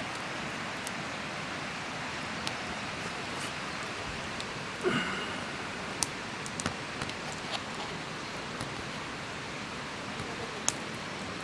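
Campfire burning: scattered sharp pops and crackles of wood over a steady hiss, with a brief pitched call about five seconds in.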